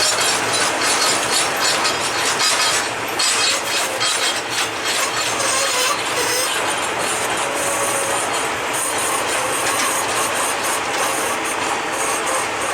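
Loaded freight ore cars of a long train rolling past close by. The wheels rattle and click rapidly over the rail joints, with a faint steel-wheel squeal now and then.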